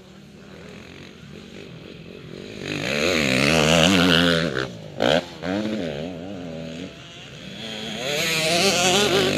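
Motocross bike engines revving up and down as they go by, louder about three to four seconds in and again near the end, with a short sharp crack about five seconds in.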